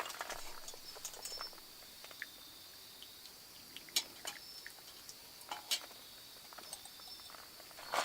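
Eating utensils clinking against dishes a few times, with separate sharp clinks, over steady high-pitched insect trilling.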